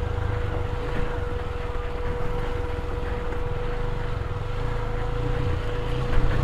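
KTM Duke 250 motorcycle's single-cylinder engine running steadily at low revs, a continuous low rumble with a faint steady hum above it.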